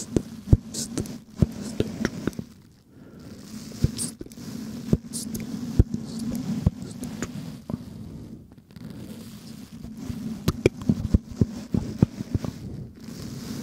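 Close-miked ASMR mouth sounds: irregular wet clicks and smacks over a low, wordless breathy murmur.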